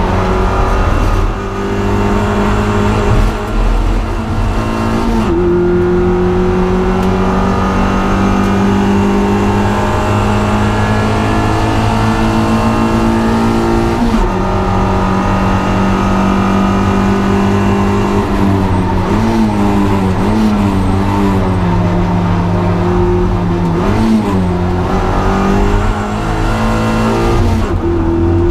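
Car engine running hard at track speed. Its pitch holds for long stretches, steps twice, and rises and falls several times later on.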